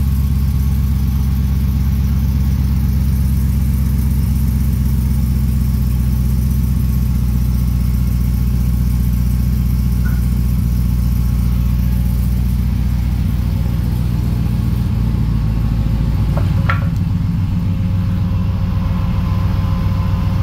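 Hellcat supercharged 6.2-litre Hemi V8 in a 1991 Grand Wagoneer idling steadily through a stainless steel exhaust.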